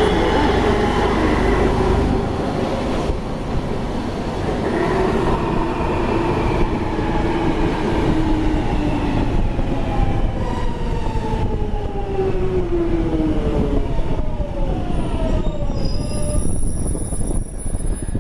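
London Underground 1996 Stock train running, with steady wheel and track rumble. Its traction motor whine slides down in pitch over several seconds as the train slows. Near the end, a few steady high tones ring out.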